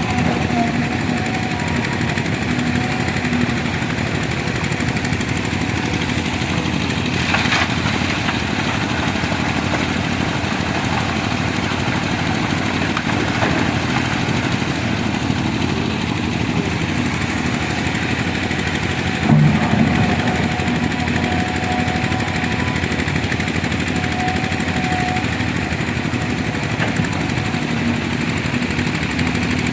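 Heavy diesel engine of an excavator running steadily under work, with a brief louder surge about two-thirds of the way through.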